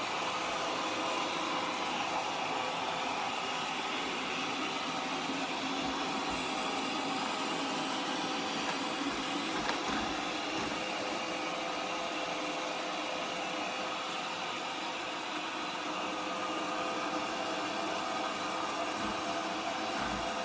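Tapo RV20 Max Plus robot vacuum running its suction motor, a steady whirring hiss with a faint constant hum under it.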